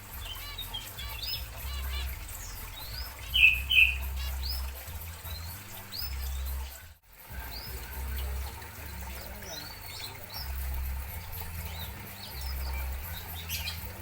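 Zebra finches calling in an aviary: many short chirps, with two louder nasal calls about a third of the way in, over a steady low hum. The sound cuts out briefly about halfway.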